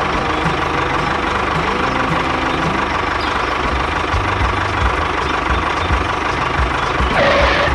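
Tractor engine running steadily with a low, even chug. A short higher-pitched sound comes in near the end.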